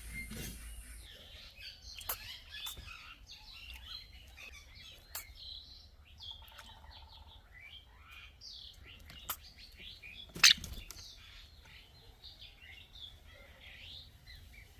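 Birds chirping: many short, quick chirps in a steady stream, with a few sharp clicks or knocks. The loudest knock comes about ten and a half seconds in.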